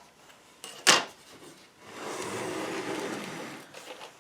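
Handling noise: one sharp knock about a second in, then about two seconds of rustling or sliding, with a few faint clicks near the end.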